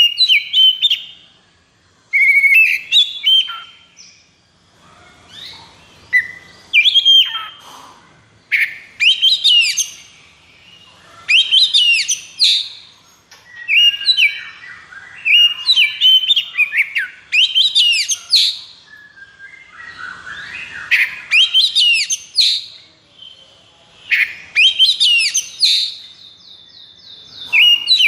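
Oriental magpie-robin singing loudly in quick, varied phrases of sweeping whistles and fast trills, one every second or two with short gaps, with a long rattling trill near the end.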